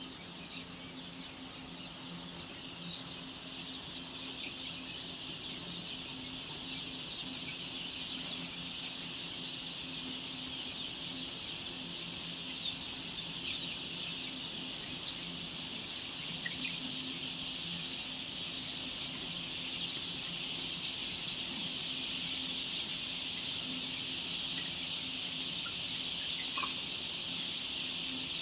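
A flock of 10-day-old layer chicks peeping continuously, many high-pitched peeps overlapping into one dense chorus that grows slightly louder. A steady low hum runs underneath, and a faint, regular high chirping of about three a second fades out about a third of the way in.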